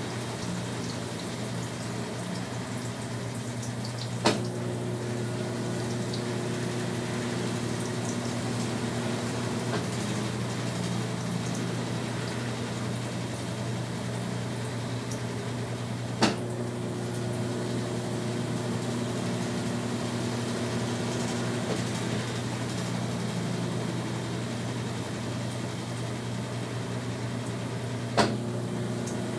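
Brastemp BWR12AB top-loading washing machine running mid-cycle: a steady hum, broken by a sharp click about every twelve seconds, three times, each followed by several seconds of steadier motor tone.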